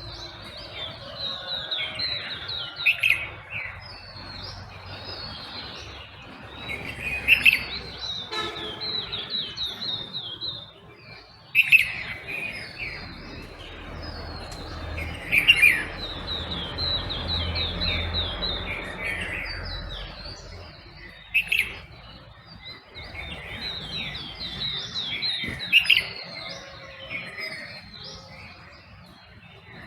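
Several birds chirping and trilling together in a dawn chorus, with a loud burst of calls every four seconds or so over a running series of quick high notes. A low rumble underlies the middle of it.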